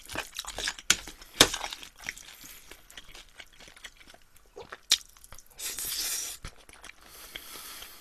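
Close-miked chewing of a spoonful of rice mixed with marinated shrimp, with wet mouth sounds and scattered sharp clicks. A short rushing hiss comes about six seconds in.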